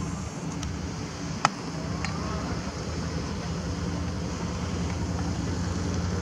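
An engine running steadily, a low even hum, with a sharp click about a second and a half in.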